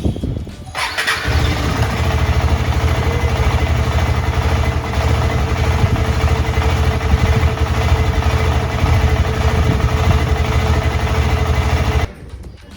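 KTM 250 Adventure single-cylinder engine cold-started in the morning: it fires about a second in, then idles steadily until the sound cuts off suddenly near the end. This is a check of the bike's hard cold-start problem, where it had been needing several attempts to start.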